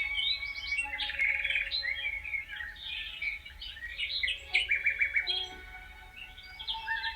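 A chorus of several songbirds chirping and trilling at once, their rapid overlapping calls continuing without a break.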